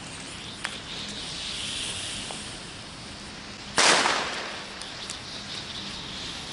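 New Year's Eve fireworks: a few faint bangs and a hiss, then one loud firecracker bang about four seconds in whose sound fades over about a second, followed by a few small crackling pops.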